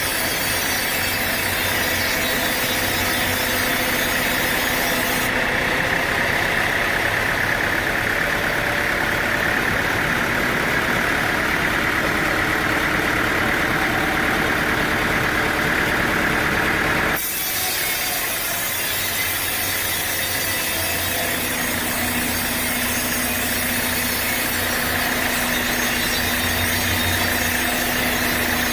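A sawmill saw cutting through a teak log, a loud, steady sawing noise. About two-thirds of the way through it cuts off abruptly and an engine runs steadily at idle.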